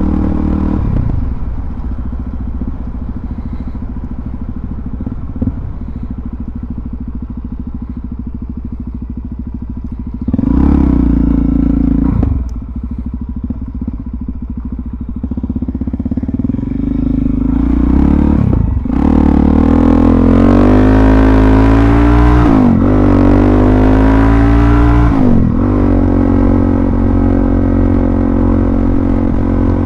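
Suzuki DR-Z400SM's single-cylinder four-stroke engine running at low revs, then briefly revving up about a third of the way in. From about halfway it accelerates hard through the gears, the pitch climbing and dipping at each upshift, and settles into a steady cruise near the end.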